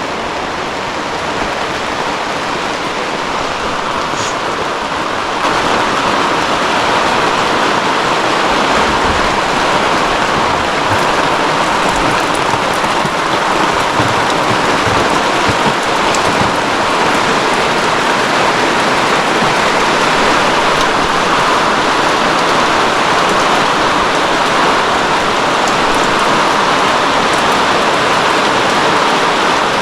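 Heavy rain falling steadily in a downpour, growing louder about five seconds in and staying heavy.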